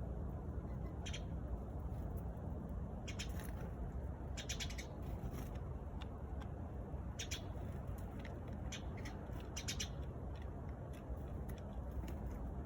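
Eurasian tree sparrows chirping in short, high, scattered chirps, some in quick runs of several, over a steady low background rumble.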